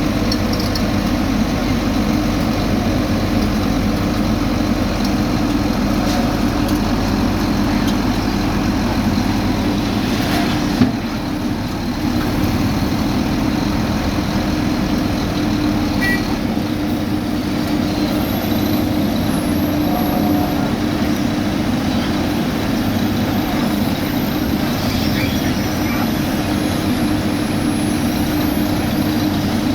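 Heavy diesel construction machinery running steadily, a constant engine drone with one sharp knock about eleven seconds in.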